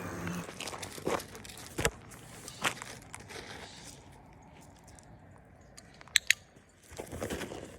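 A dog chewing and crunching in short scattered bites, with two sharp clicks close together about six seconds in.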